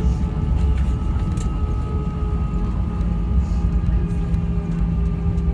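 Airbus A320 cabin noise on the ground after landing: a steady low rumble with a steady hum over it and a few faint clicks.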